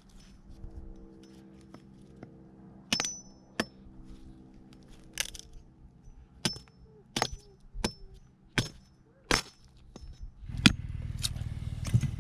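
A dozen or so sharp clinks and knocks of hard objects being handled, several with a brief metallic ring, over a faint steady hum. A louder steady low rushing noise comes in near the end.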